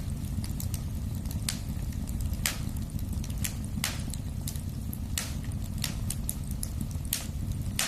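Fire burning in a fireplace: a steady low rumble of flames with irregular sharp crackles and pops, about one a second.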